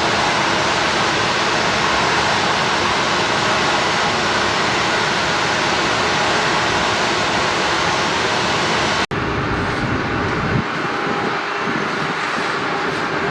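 Jet engines of a taxiing airliner, a loud, steady rush of engine noise. About nine seconds in the sound cuts off abruptly and gives way to another, slightly quieter engine noise carrying a few steady tones.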